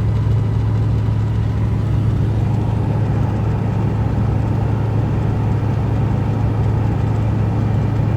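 A motor running steadily with a strong, even low hum and no change in speed.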